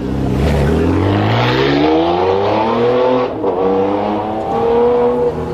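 Car engine accelerating hard, its pitch rising, then dropping at a gear change about three seconds in and rising again.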